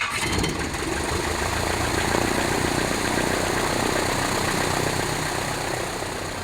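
Small airplane's propeller engine running steadily and loud, easing off slightly near the end.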